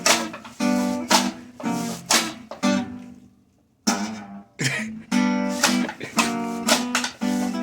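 Gibson L-5 archtop guitar strummed in rhythmic chords. About three seconds in, a chord is left to ring and fade almost to silence, and the strumming starts again about a second later.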